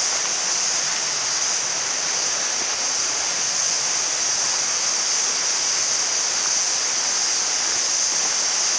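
Steady rushing of river water, with a constant high-pitched hiss over it.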